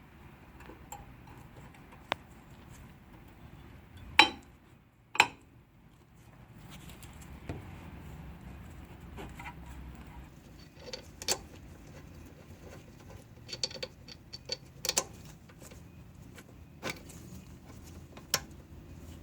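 Scattered metal clinks and knocks of tools and brake parts being handled during a brake job, with two sharp knocks about four and five seconds in and a quick run of clicks around fourteen to fifteen seconds.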